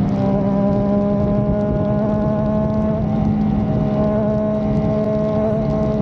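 Triumph Trident 660's 660 cc inline three-cylinder engine running at a steady, even note, with no revving.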